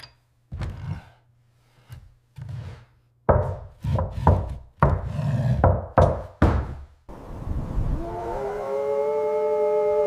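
A run of irregular wooden knocks and thuds for about seven seconds. Then wolves begin howling together, the howls rising in and holding long, steady notes.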